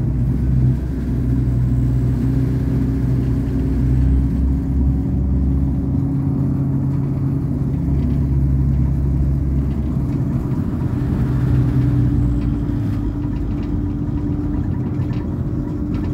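Train running at speed, heard from inside the carriage: a steady low rumble with a constant low hum under it.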